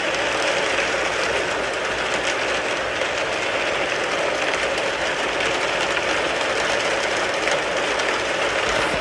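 Rain falling on a car, a steady dense patter of drops on the roof and body with no let-up.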